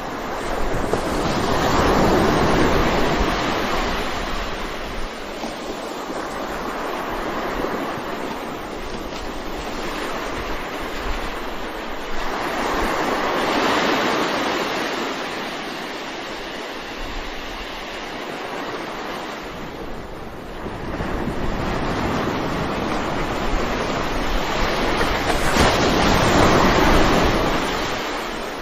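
Sea waves breaking and washing up the shore, a continuous rushing that swells and fades, with the biggest surges coming roughly every twelve seconds.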